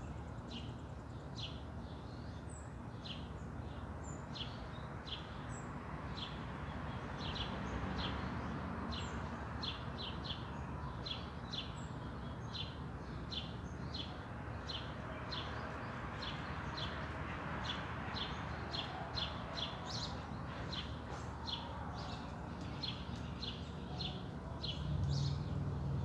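A small songbird chirping over and over, short high chips about one or two a second, over a steady low rushing background noise.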